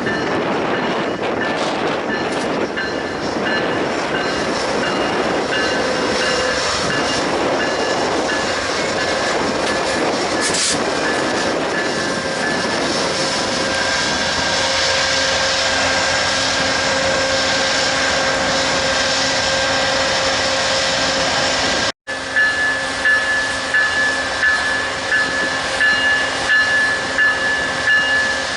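Train cars rolling past on the track, with a steady whine over the rumble of the wheels. After a brief drop-out near the end, a regular clatter of wheels over rail joints comes about one and a half times a second.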